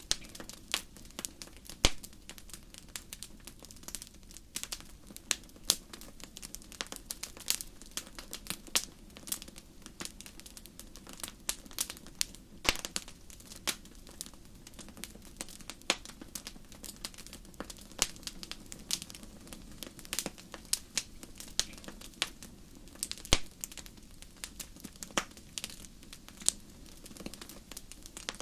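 Wood fire crackling in a fireplace: irregular sharp pops and snaps over a low, steady rush of the flames, with a few louder pops.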